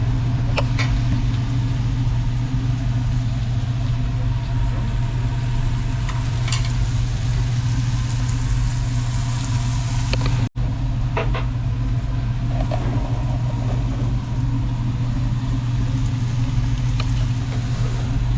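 Meat sizzling on a tabletop barbecue grill over a steady low hum, like a grill exhaust fan, with a few short clicks of utensils.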